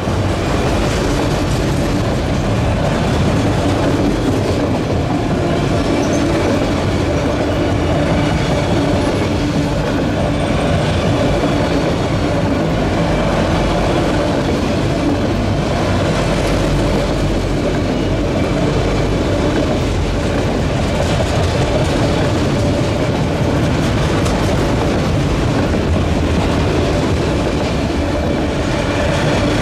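Autorack freight cars of a CSX train rolling past close by: a steady, loud rumble of steel wheels on the rails.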